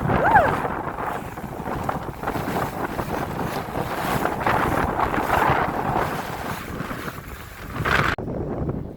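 Wind buffeting the microphone on an open fishing boat, over the wash of water around the hull. The noise gusts up and down and drops away suddenly near the end.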